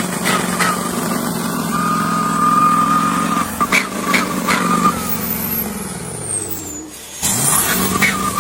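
Truck engine and drivetrain running loud at high revs with a steady high whine and regular sharp ticks. The revs fall away about five seconds in, nearly drop out near the end, then rise sharply again.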